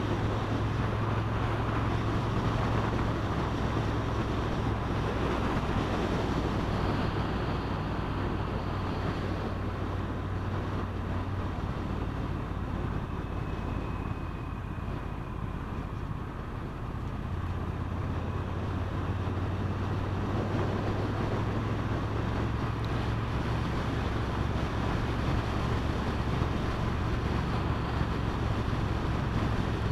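Triumph Bonneville T120's parallel-twin engine running while riding along, with wind rushing over the microphone. The engine note eases off a little about halfway and then picks up again.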